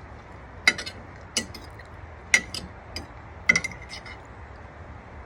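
Metal eating utensil clinking against a dish several times, sharp separate clinks about a second apart.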